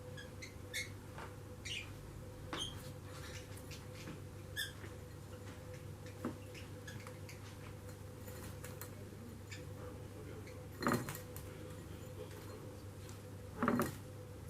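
Lovebird bathing in a water bowl: a few faint short chirps in the first few seconds, then two brief bursts of wing-flapping splashes, about eleven and fourteen seconds in.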